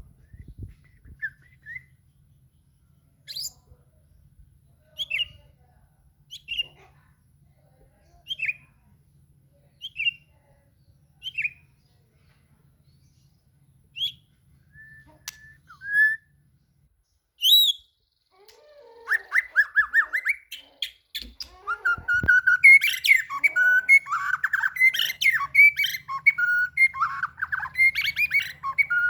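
White-rumped shama (murai batu) giving single short whistled notes spaced about a second and a half apart, then from about two-thirds of the way through breaking into loud, fast, varied song. This is the rival-seeking singing that keepers call gacor.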